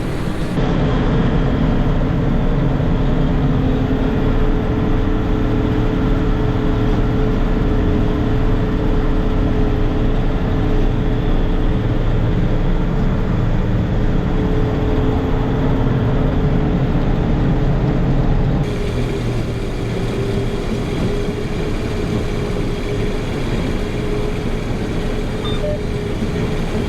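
Combine harvester running steadily while harvesting soybeans: a constant engine and machinery drone with a steady whine over it. The sound shifts abruptly about two-thirds of the way through.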